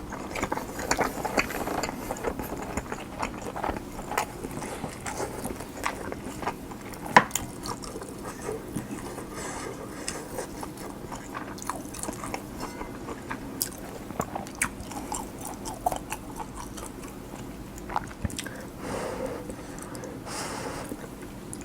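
Close-miked chewing of a mouthful of cheese-and-egg kimchi fried rice, with wet mouth noises and many short sharp clicks scattered through; the loudest click comes about seven seconds in.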